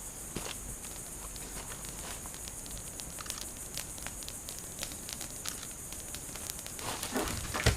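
Campfire crackling with scattered sharp pops over a steady hiss. Near the end comes a louder rustling, handling noise.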